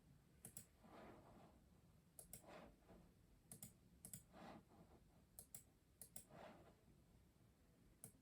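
Faint, unhurried keystrokes on a custom mechanical keyboard: sharp clicks, often in quick pairs, alternating with softer, duller key presses about once a second.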